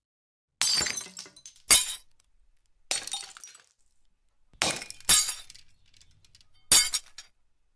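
Glass breaking and shattering, about six separate short smashes with silence between them, each a sharp crack with a tinkling tail.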